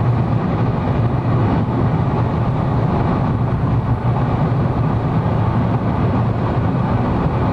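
Steady, loud engine, tyre and wind noise heard from inside a pace car's cabin as it laps an oval speedway at about 120 mph.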